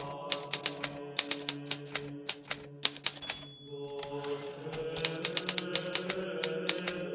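Hermes Baby portable typewriter being typed on in quick, uneven key strikes. About three seconds in, a bell rings briefly and the typing pauses for about a second before starting again. Soft sustained background music plays underneath.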